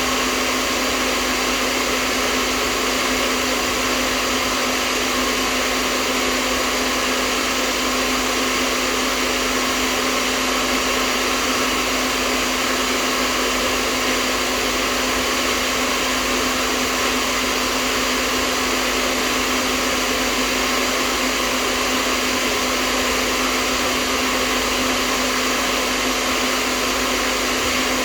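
Hair dryer running steadily without change: an even rush of blown air over a constant motor hum.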